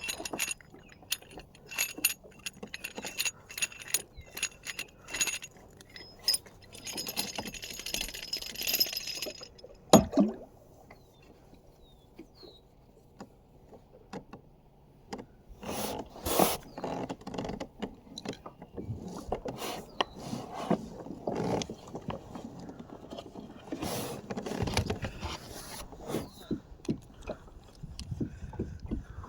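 Gear being handled in a kayak: irregular metallic clicking and jingling, a sharp knock about ten seconds in, then scattered bumps and scrapes.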